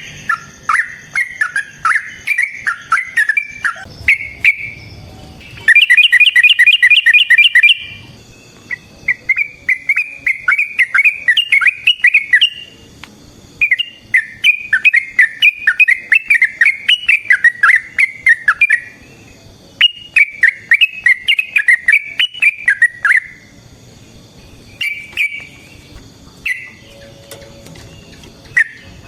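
Yellow-vented bulbul (trucukan) singing long runs of rapid, chattering notes with short pauses between them. The loudest, densest rattling run comes about six to eight seconds in.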